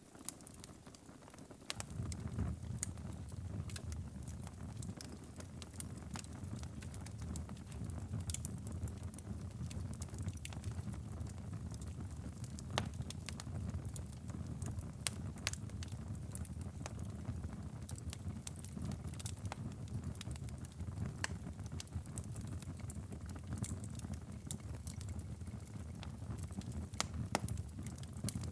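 Wood fire crackling in a fireplace, with frequent sharp pops and snaps over a steady low rumble. The low rumble is absent for about the first two seconds, then sets in.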